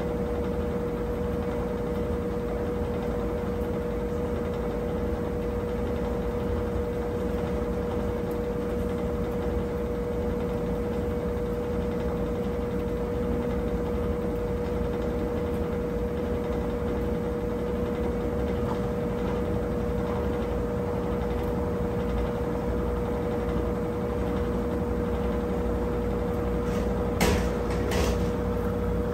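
Brastemp 17 kg washing machine running steadily with a constant whine over a broad mechanical hum, late in its wash cycle. Two brief clicks come near the end.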